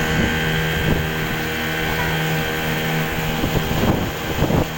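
Boat engine running steadily with an even hum, with wind noise on the microphone.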